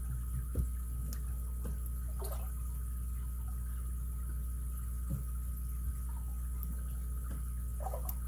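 Faint clicks and short scrapes of a lock pick working the pins of an ABUS 83CS/55 padlock, a few scattered ticks, over a steady electrical hum.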